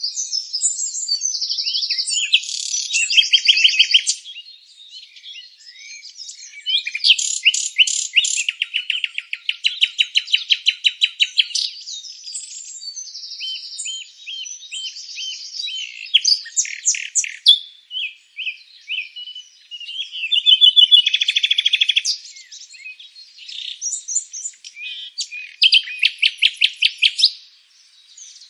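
Several songbirds singing and chirping at once: quick chirps, buzzy trills and fast runs of repeated notes overlapping, with short lulls around 4 to 7 seconds and near 18 seconds.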